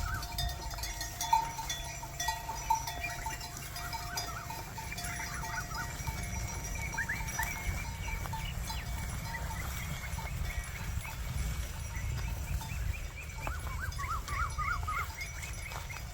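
Outdoor farm-field ambience during ox ploughing: many short chirping calls, a steady low rumble, and two steady ringing tones that fade out about six seconds in.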